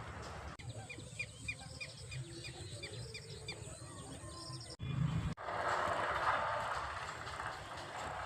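A bird calling a run of about ten short, evenly spaced chirps over some four seconds. It cuts off abruptly, and after a low thump a steady rushing noise follows.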